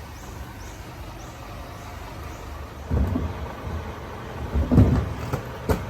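Low, steady rumble of a vehicle engine running, with two heavier swells in it about three and five seconds in and a sharp click near the end.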